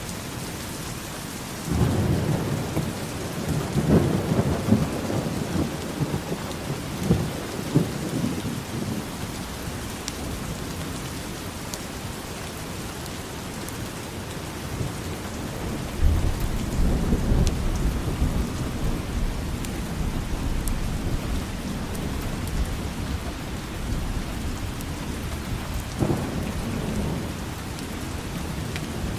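Steady rain with thunder: a long low roll of thunder starts about two seconds in, and a second one comes about halfway through and rumbles on for several seconds.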